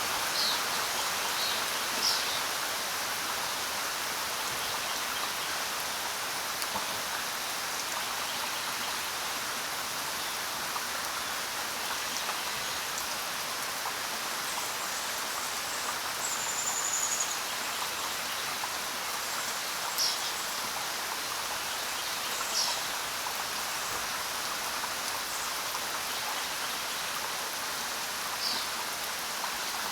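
Steady rain falling on the ground: a dense, even hiss of many drops. A handful of brief high sounds stand out above it now and then.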